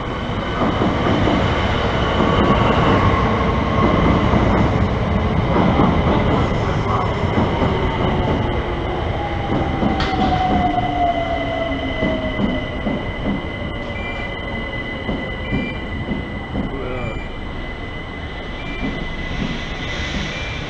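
Southeastern Networker electric train running through the station and slowing: its motor whine falls steadily in pitch over about ten seconds, over a loud rumble and clatter of wheels on the rails.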